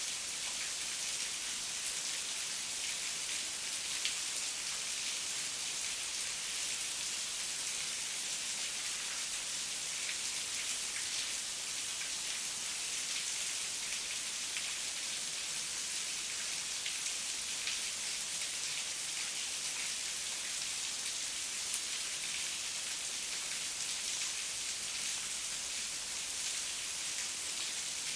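Heavy rain falling steadily, an even hiss sitting mostly in the high frequencies with countless small drop ticks and no thunder.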